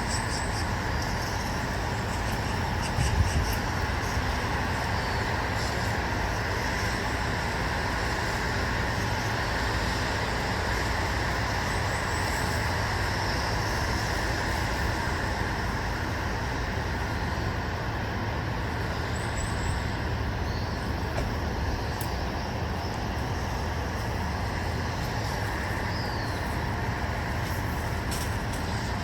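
Steady rumble of distant road traffic, with a short thump about three seconds in.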